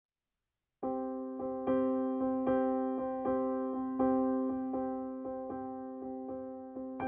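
Background music: an electric piano playing a gentle, evenly repeating pattern of notes. It starts abruptly just under a second in, after complete silence.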